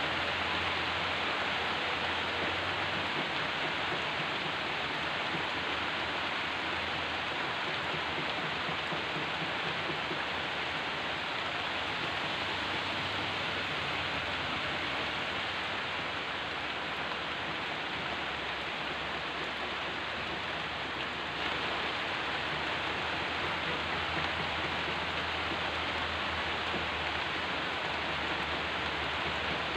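Heavy rain pouring steadily, an even hiss with no break.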